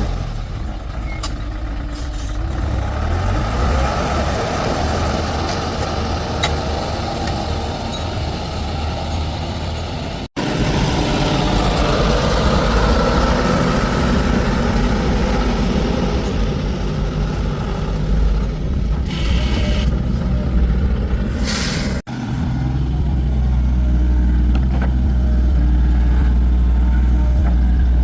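Heavy diesel engine running steadily with a deep low hum, broken by two short bursts of air hiss around 19 and 21 seconds in. The sound cuts off abruptly twice.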